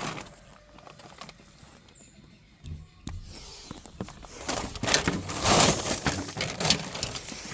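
Poultry stirring in a pen: irregular scuffling and rustling, with wing flaps, getting louder about halfway through after a quiet start.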